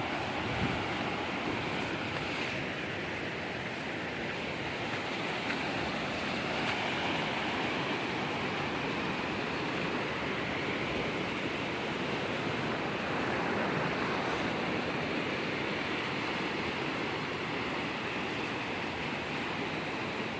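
Steady rush of moving water, a continuous even wash with no distinct events.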